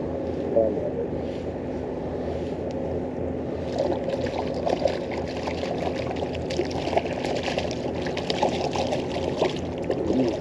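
Water splashing and trickling over a steady low hum, the splashing getting busier from about four seconds in.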